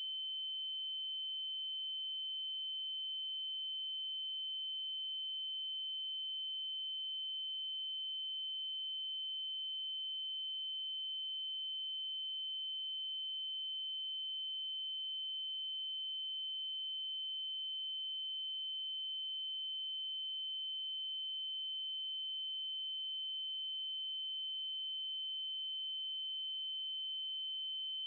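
Continuous electronically generated 3072 Hz triangle-wave tone, a single high pitch held steady without change.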